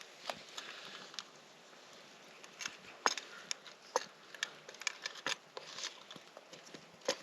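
Irregular crackles and pops from a campfire and the ground beef cooking in a pot over it, scattered sharp clicks of varying loudness over a faint hiss.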